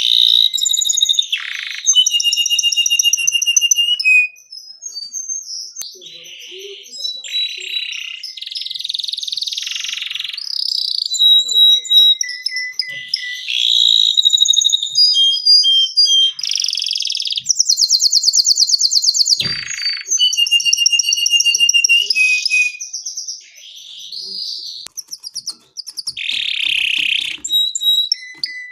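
Domestic canary singing a long, varied song of whistled phrases and rapid trills, with a fast buzzy trill about two-thirds of the way through and only brief pauses.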